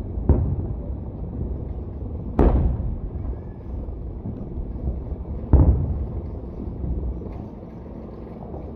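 Fireworks shells bursting in the air: three booms, the loudest about two and a half seconds in, each trailing off into a rolling rumble, with a low rumble between them.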